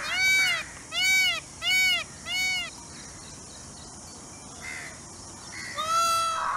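Peacock (Indian peafowl) giving loud, harsh calls: four short arched calls in quick succession over about two and a half seconds, then a longer call near the end, over a steady high hiss.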